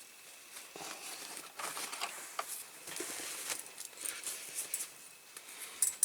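Soft, irregular rustling and scraping of close-up handling as the nozzle of a superglue bottle is wiped clean, with a short sharp click near the end.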